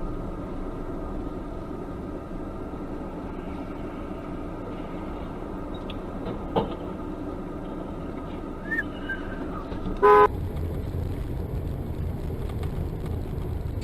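Steady car road and engine rumble, broken about ten seconds in by one short, loud blast of a car horn.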